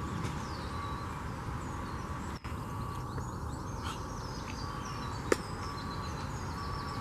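Small birds chirping and twittering, many short high notes and quick downward sweeps, over a steady low rumble. A single sharp click about five seconds in.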